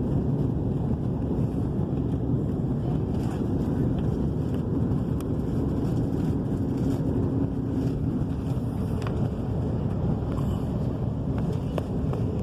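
Steady rush of airflow and engine noise inside the cabin of an Airbus A330 on final approach, with a faint steady hum joining in for a few seconds midway.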